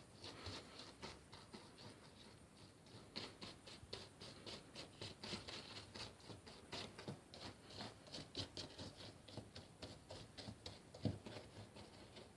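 A large paintbrush dabbing and rubbing over polystyrene-foam bricks, blending gouache paint: faint, quick scratchy strokes, several a second, with one soft knock near the end.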